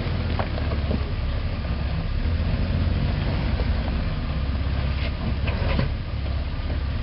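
An off-road Jeep's engine running slowly and steadily while crawling over rock, with a few short knocks and crunches.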